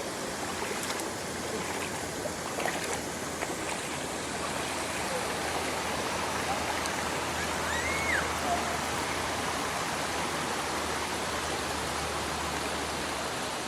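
A shallow river flowing and babbling steadily, a continuous rush of running water.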